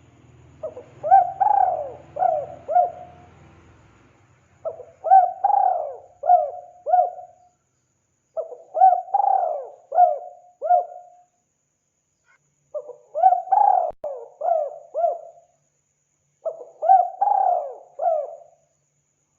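Spotted dove (tekukur) cooing: five repeated phrases of about five coos each, one phrase roughly every four seconds. A faint low hum sits under the first phrase.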